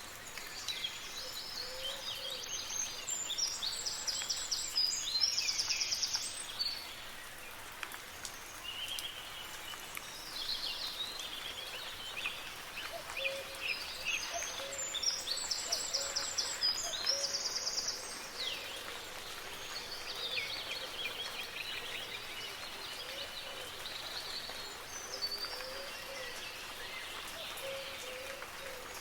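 Several birds singing and calling over a soft, steady hiss of light rain. A bright, rapid song phrase comes about three seconds in and again around fifteen seconds, and low soft notes recur throughout.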